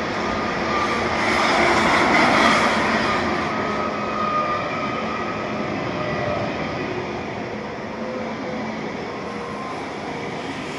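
Electric EuroCity passenger train running past on the line, its wheels and running gear loudest about two seconds in, then slowly easing off as the rest of the carriages go by.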